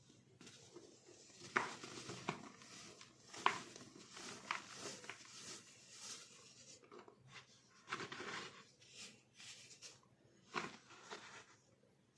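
Dried baking soda being crushed, crunching and crumbling: a gritty hiss broken by irregular sharp cracks, the loudest about a second and a half, three and a half, eight and ten and a half seconds in.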